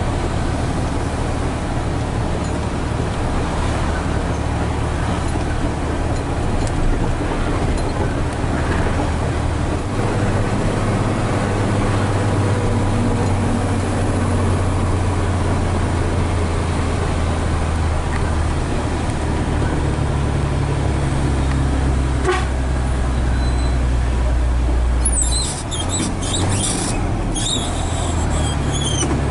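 Heavy truck diesel engine of a Hino 500 FM320TI tractor unit, heard from inside the cab as it drives under load, a steady low drone whose pitch changes several times. A short, high, intermittent squeal comes near the end.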